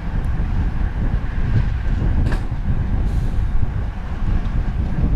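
Wind rushing over an action camera's microphone at road-race speed, mixed with bicycle tyre and road noise: a steady low rumble. A brief click comes a little over two seconds in.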